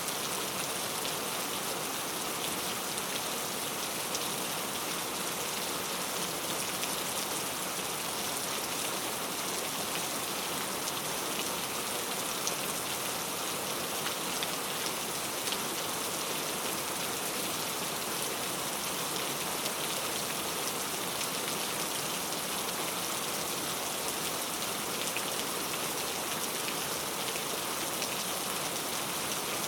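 Steady rain falling, an even hiss with many fine drop patters on a surface.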